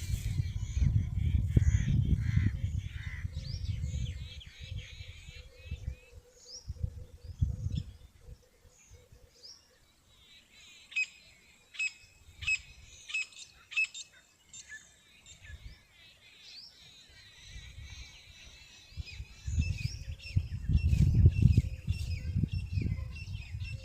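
Small birds chirping and twittering throughout, with a run of sharp chirps about two a second around the middle. A low rumbling noise covers the opening seconds and returns near the end.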